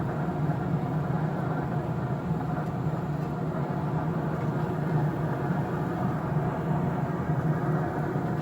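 Camp Chef Woodwind SG pellet grill running with its fan going, a steady low hum with no change.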